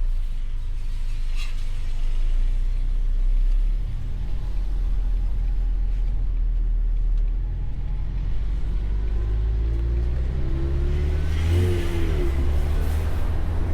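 Ford Mustang convertible's engine running while driving, with open-top road rumble. About two-thirds of the way in, the engine note rises as the car accelerates, then falls back.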